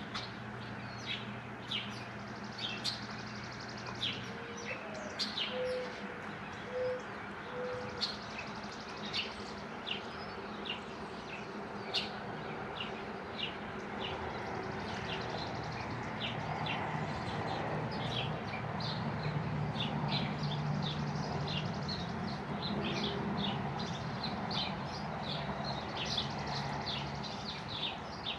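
Small birds chirping, many short high chirps a second throughout, with three short low hoots about five seconds in. A low rumble swells and fades in the second half.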